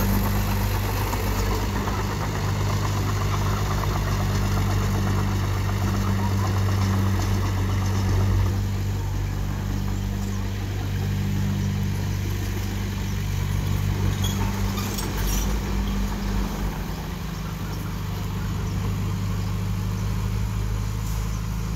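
Diesel engine of heavy earthmoving machinery running steadily, its note shifting a little about eight seconds in and again near sixteen seconds, with a few light clicks around fifteen seconds.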